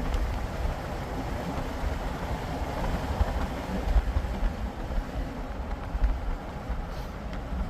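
Car being driven, heard from inside the cabin: a steady low rumble of road and engine noise.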